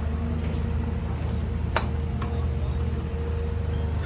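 A heavy engine running steadily with a deep hum, with two short sharp clicks a little under two seconds in.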